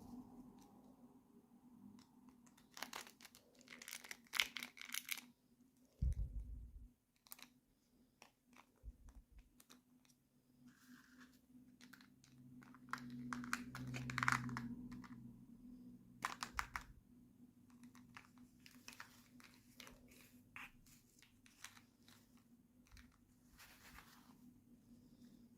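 Toy packaging being unwrapped by hand: plastic crinkling and tearing in irregular short bursts, with small clicks and taps between them. A faint steady low hum runs underneath.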